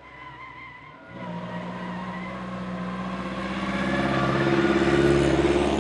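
Classic racing car's engine running hard under acceleration. It starts suddenly about a second in and grows steadily louder, loudest near the end.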